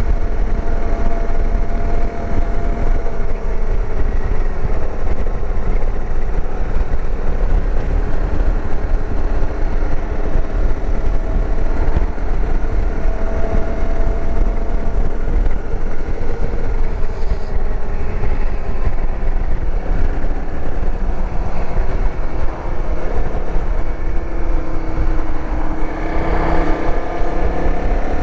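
Dirt bike engine running on the road, its pitch drifting slowly up and down with speed, under a heavy rumble of wind on the microphone.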